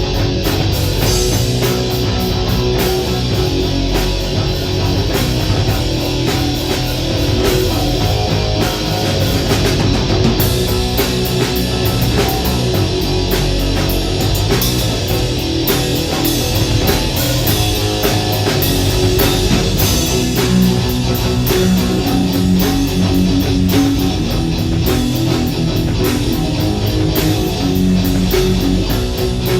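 Rock band playing live: distorted electric guitars over a steady drum kit beat, loud and unbroken.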